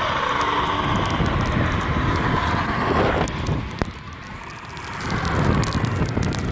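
Vehicle rumble with wind noise buffeting the microphone. It drops off about four seconds in and swells again shortly after.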